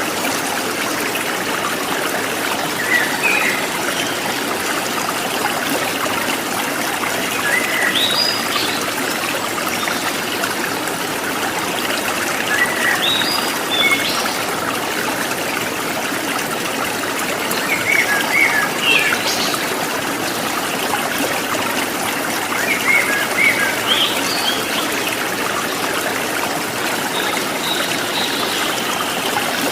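Running water trickling steadily in a stream, with birds chirping in short rising phrases every few seconds.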